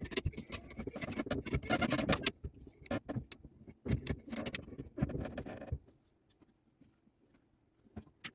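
Metal clanking and rattling in irregular bursts as a boat's inboard engine is worked off its mounts, dying away about six seconds in.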